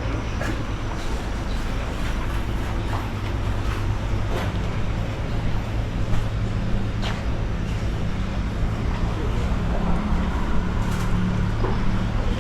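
A motor vehicle engine running steadily, a low hum that grows stronger about a third of the way in, with scattered light clicks and knocks.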